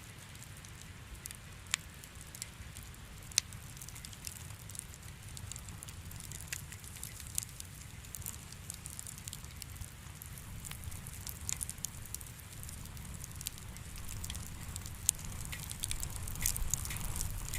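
Fireplace fire crackling: irregular sharp pops and snaps, a few of them louder, over a steady low rumble.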